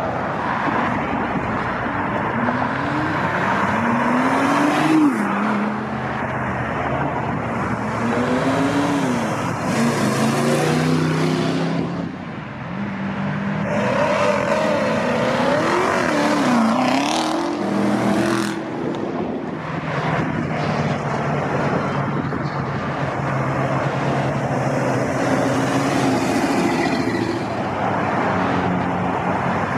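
Performance cars pulling away one after another, their engines revving up and accelerating. Several times the engine pitch climbs and then drops as a car shifts or lifts off, with steady traffic noise between.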